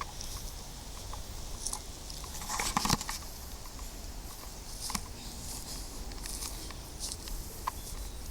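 Footsteps crunching and crackling on a dry woodland path, irregular, with a louder crunch about three seconds in, over a steady low rumble.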